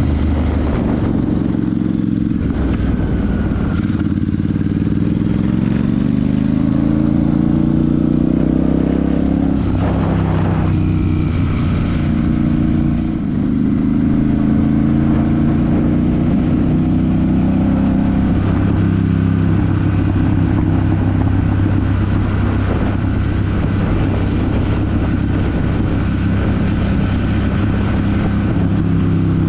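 Royal Enfield Super Meteor 650's 648 cc parallel-twin engine and exhaust under way: the engine pitch climbs twice in the first dozen seconds with a brief drop between, then holds steady at a cruise.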